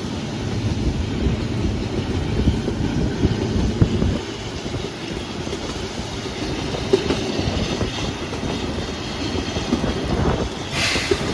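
Kangra Valley narrow-gauge toy train running, its wheels clattering steadily over the rail joints in a continuous low rumble. A brief burst of hiss comes near the end.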